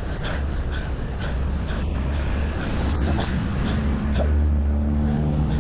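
Wind rumbling on a helmet camera's microphone, with a motor vehicle's engine humming alongside and growing louder past the middle, as if it draws closer.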